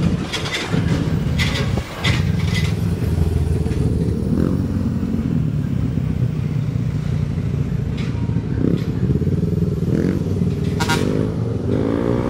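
Motorcycle engine running steadily in slow traffic, heard from the rider's seat, with a few short sharp sounds in the first two seconds. Near the end the engine revs up, rising in pitch.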